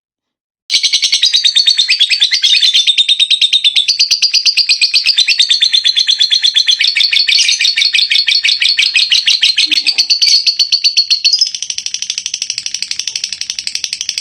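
Lovebirds chirping in a fast, unbroken stream of high, rapid chirps, starting abruptly about a second in and getting a little quieter near the end.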